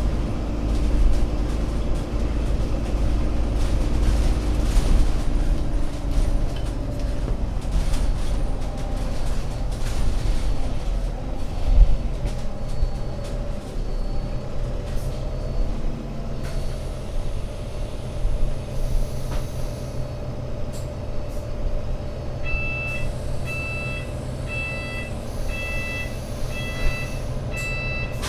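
Alexander Dennis Enviro500 MMC double-decker bus's Euro 6 diesel engine running, its pitch dropping over the first few seconds and then holding steady, with a short bang about twelve seconds in. Near the end, air hisses and an electronic beep repeats about seven times in five seconds.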